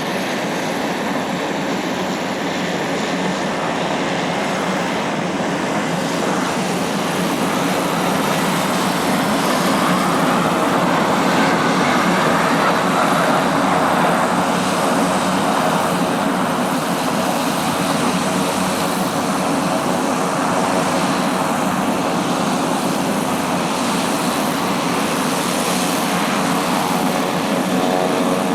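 Twin turbofan engines of a Cessna Citation XL business jet landing: a loud, steady rush of jet noise that builds to its loudest about a third of the way in, then holds.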